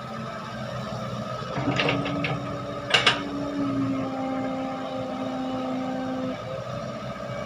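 Heavy machinery diesel engine running. Its pitch rises at about a second and a half in, holds, and drops back near the end, with a few metallic clanks around two and three seconds in.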